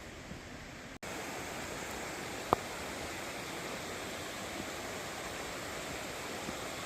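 Mountain stream water rushing steadily over rocks, a little louder after about a second in. A single sharp click about two and a half seconds in.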